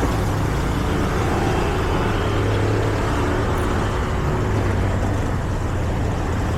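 Steady hum of road traffic, with the engines of passing cars and other vehicles running at an even level.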